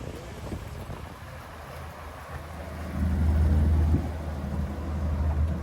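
A car engine running with a low, steady rumble, which swells louder for about a second around three seconds in.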